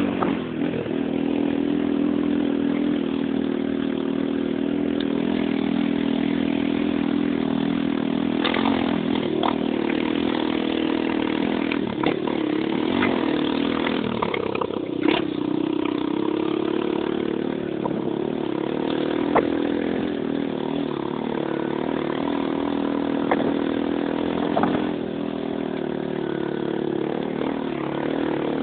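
Unico 300 motocross motorcycle engine running steadily at low revs, its pitch wavering only slightly, with a few short sharp clicks scattered through.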